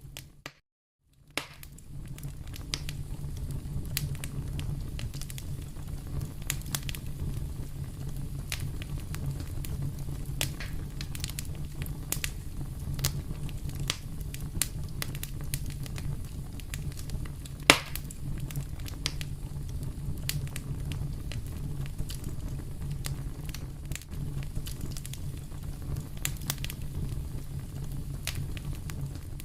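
Wood fire in a fireplace crackling: a steady low rumble of flames under many sharp pops and snaps, with one much louder pop about two-thirds of the way through. The sound drops out almost completely for about a second shortly after the start.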